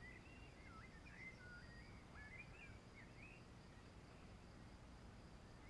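Faint birdsong: a songbird's quick run of varied whistled chirps and glides in the first three seconds, then only a few scattered notes near the end, over a low steady outdoor background noise.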